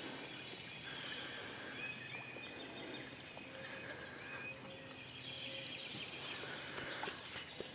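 Faint outdoor ambience with scattered bird calls: many short chirps and whistles, some sweeping down in pitch.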